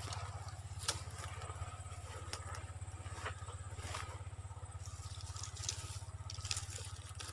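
A steady low hum with a fast, even pulse, with scattered light rustles and clicks over it.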